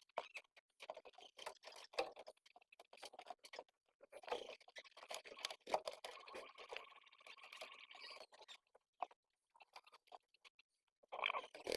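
Pigeon squabs being fed: a scatter of small quick clicks and rustles, with a thin, steady squeaking for about four seconds in the middle.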